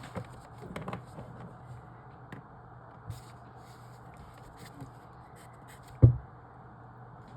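Faint handling noises: light scrapes and clicks, with one short low thump about six seconds in, over a steady low hum.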